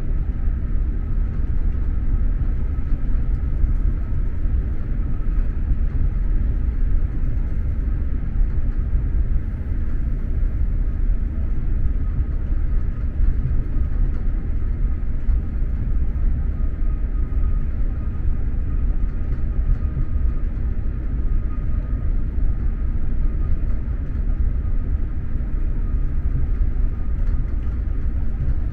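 Steady low rumble of an X2000 high-speed train running at speed, heard from inside the passenger coach, with a faint steady high whine over it.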